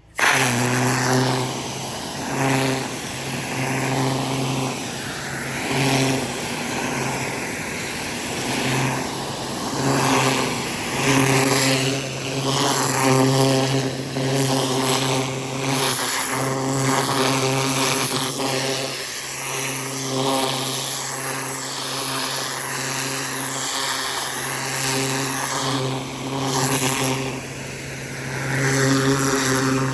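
4200 psi pressure washer running with a rotating nozzle spraying water onto the ground. A steady engine note and spray hiss start abruptly, then swell and dip every couple of seconds.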